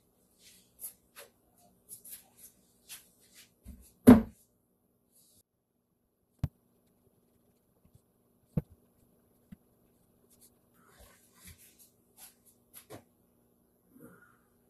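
Hands handling wood and clamps on a workbench: scattered light taps and ticks, one louder knock about four seconds in, and two sharp clicks a couple of seconds apart, over a faint steady hum.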